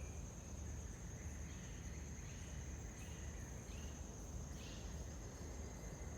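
Insects calling outdoors: one steady, high-pitched trill with no break, over a low, steady background rumble. A few faint, short chirps come through every second or so.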